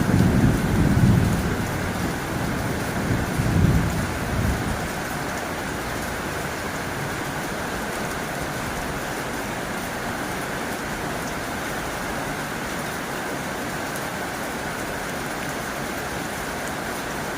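Heavy rain drumming on a tin roof in a steady, even hiss, with low rumbles of thunder during the first four seconds or so.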